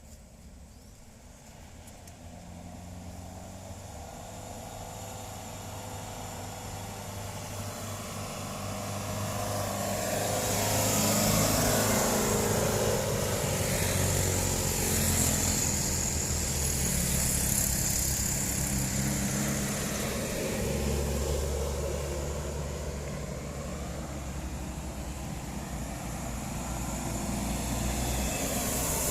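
A truck engine running under load, getting steadily louder over the first ten seconds or so and then staying loud with small rises and falls.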